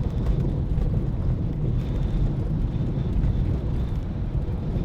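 Steady road and engine rumble of a car driving along a road, with some wind buffeting on the microphone.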